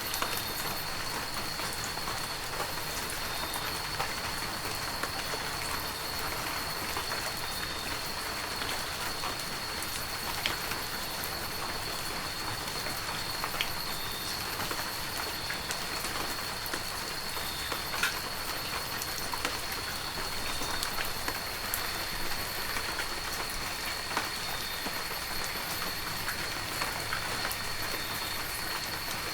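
Heavy rain falling steadily, with scattered sharper drop hits. A thin, steady high-pitched tone runs under it throughout.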